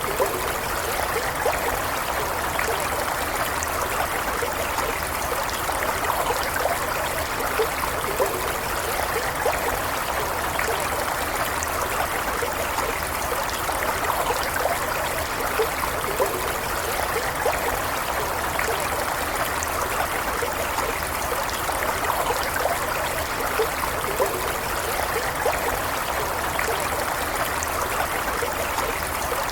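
Stream water flowing steadily, with small gurgles and trickles standing out now and then.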